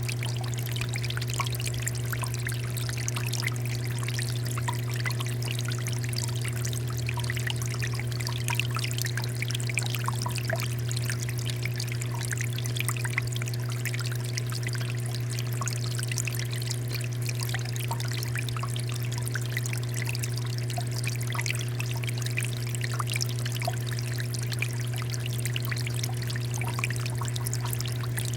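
Water fountain flowing steadily, water pouring and splashing with many small drips, over a steady low hum.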